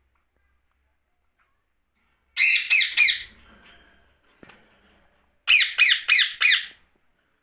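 Ringneck parakeet giving shrill screeching calls, each one falling in pitch: a run of three about two and a half seconds in, then four in quick succession after a short pause.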